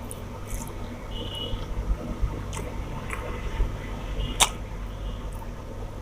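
A person eating rice and fish curry: soft chewing and squishing sounds with scattered small clicks, over a steady low hum. One sharp click a little over four seconds in is the loudest sound.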